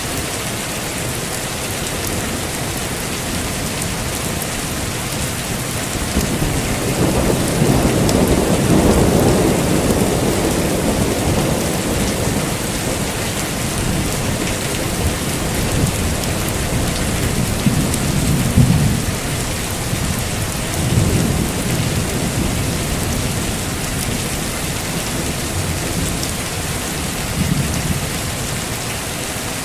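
Heavy steady rain with thunder: a long low rumble builds about six seconds in and fades over several seconds, followed by a few shorter, fainter rumbles.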